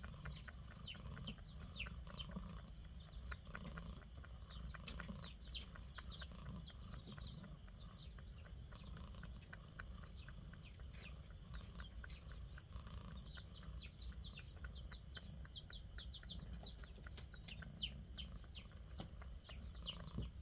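Small birds chirping busily: many short, quick chirps, each sliding down in pitch, over a steady low rumble.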